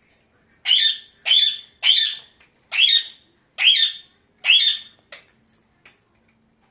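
Pet parakeet screeching six times in a row, harsh squawks each about half a second long, evenly spaced, followed by a few faint clicks.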